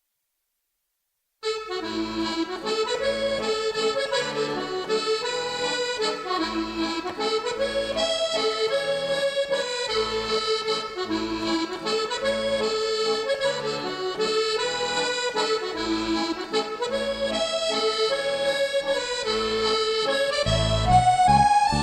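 Accordion music with a lilting folk melody, starting about a second and a half in; deeper bass notes grow louder near the end.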